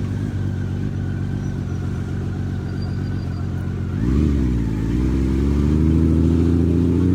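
Honda Valkyrie's flat-six motorcycle engine running steadily under way, then briefly revving up and down about four seconds in, then rising smoothly in pitch as the bike accelerates.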